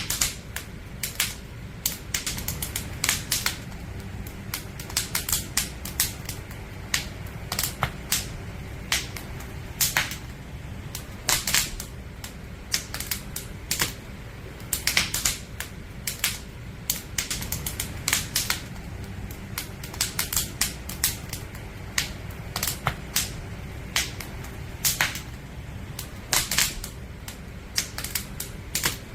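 Firewood burning in a campfire: irregular sharp crackles and pops, often several in quick succession, over a steady low rumble of the flames.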